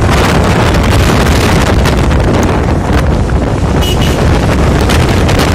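Loud wind buffeting the microphone, a dense steady rumble strongest in the low end, with a brief faint high tone about four seconds in.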